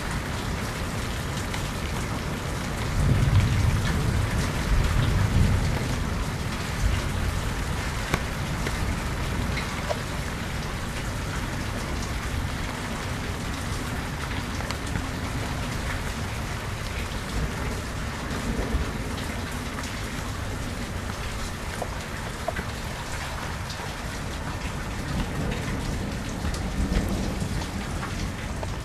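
Rain falling steadily, with a low rumble of thunder swelling a few seconds in and again briefly near the end.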